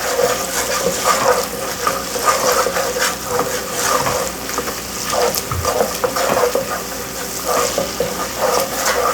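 Diced onion sizzling in butter in a pot over medium-high heat, salted to sweat the water out of it, with a utensil stirring and scraping now and then.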